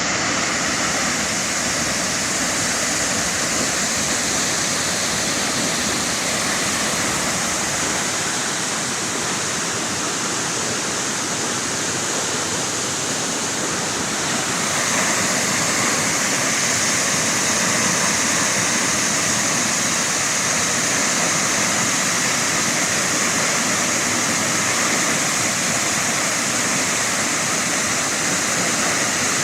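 Pulhapanzak waterfall's falling water: a steady, loud rush, a little louder from about halfway through.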